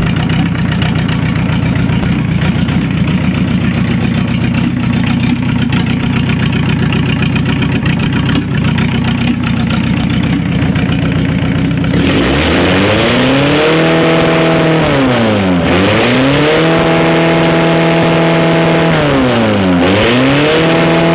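Mazda 1.7-litre diesel engine idling steadily, then revved hard about twelve seconds in and held at high revs, dropping back twice before climbing again each time. It is a worn engine that the owner says blows oil.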